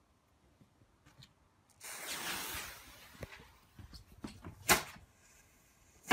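Homemade gunpowder firework bomb: a fuse hissing for about a second, a few small knocks and a sharp crack, then a much louder bang right at the end as it goes off.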